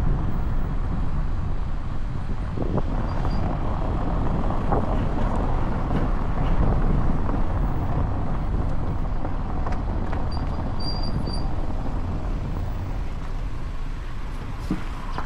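Bajaj Dominar 400 motorcycle on the move: a steady rush of wind and road noise on the microphone with the engine underneath, even in level throughout, with a few faint short high chirps about three seconds in and again near eleven seconds.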